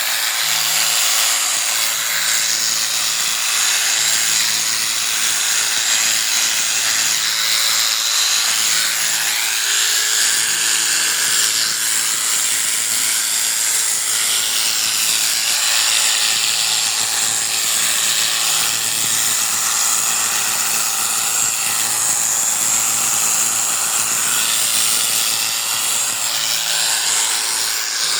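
Electric sheep-shearing clippers running steadily with a high buzz as they shear a sheep's wool.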